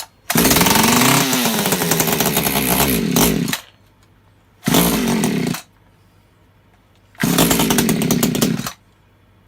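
Echo CS3400 top-handle two-stroke chainsaw being pull-started on full choke. It fires and runs for about three seconds, the revs rising and falling, then dies. Two shorter bursts follow as it is pulled again and fires only briefly, a sign that it is flooding or over-choked.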